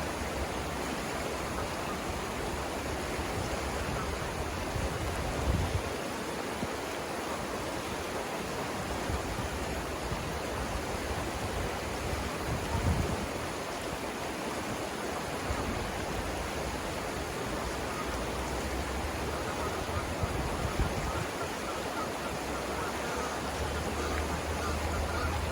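Savannah River rapids: water rushing over the rocks in a steady hiss, with a low rumble underneath and a couple of brief low bumps about 5 and 13 seconds in.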